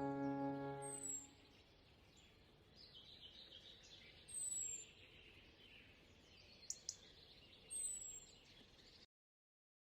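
A held music chord fades out about a second in. Then, very faintly, short high bird chirps repeat every couple of seconds over a low hiss, before the sound cuts to silence near the end.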